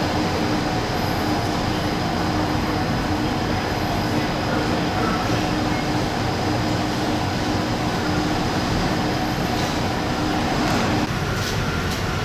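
Steady rumble of a Taiwan Railways Chu-Kuang express train running on the line, with a constant hum through it. The sound cuts off abruptly about eleven seconds in, leaving a quieter background.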